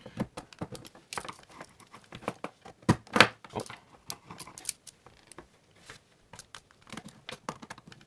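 Irregular small clicks, taps and scrapes of a screwdriver on the terminal screws of a duplex outlet receptacle while wires are fastened under them, with the receptacle clacking against a wooden surface as it is handled. The loudest knocks come about three seconds in.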